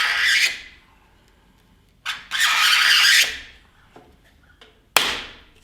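A plexiglass scoring tool drawn hard along an acrylic sheet, two scraping strokes about a second long, then a single sharp crack near the end as the plexiglass snaps off along the score line.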